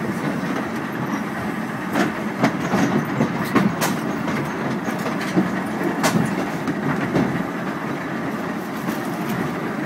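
Volks Electric Railway carriage running along the track, heard from inside: a steady rumble of wheels on rail with several sharp clicks and knocks through the middle.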